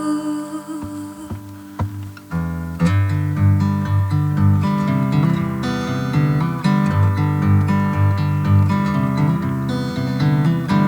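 Acoustic guitar playing an instrumental passage of a song. The first couple of seconds are sparse and soft, then a fuller, rhythmic strummed accompaniment with pulsing low notes comes in.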